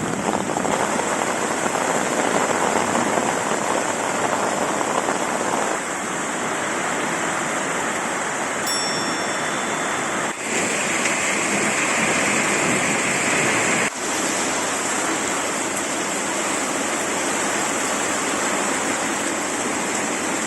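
Heavy rain falling steadily, an even hiss of downpour that breaks off briefly twice.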